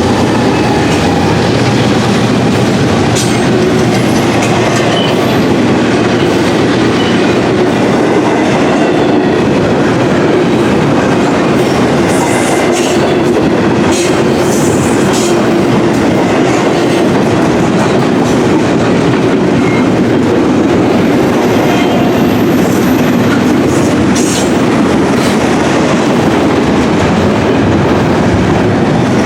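Intermodal container freight train rolling past, with a steady loud rumble and clickety-clack of the wheels over the rail joints. A faint high wheel squeal comes in briefly about three-quarters of the way through.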